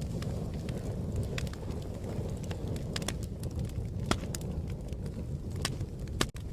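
Wood fire crackling: a steady low rumble of burning with irregular sharp pops and snaps, a few louder than the rest. The sound cuts out for an instant near the end.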